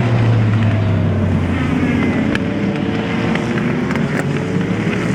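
A vehicle engine running steadily with a deep hum, under heavy wind noise on the microphone.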